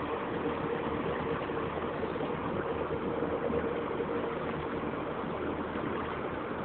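Boat motor running steadily, a constant engine hum with water and wind noise around it.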